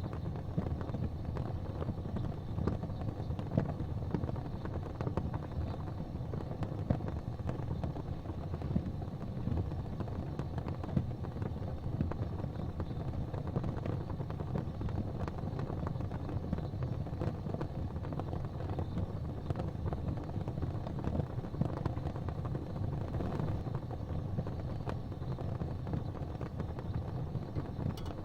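Gas fireplace flames burning with a steady low rumble and many faint small crackles throughout.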